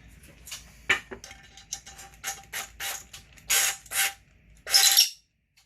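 A screw being driven into the metal fuel tank with a ratcheting hand tool: a quick series of short ratcheting clicks and strokes, the last few louder and longer.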